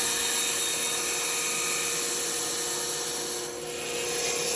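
Band saw running and cutting through wood: a steady motor hum under the rasp of the blade, which dips briefly about three and a half seconds in.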